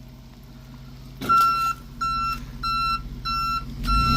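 Vehicle reversing alarm beeping, a steady single-tone beep about one and a half times a second, starting about a second in, over a low engine hum.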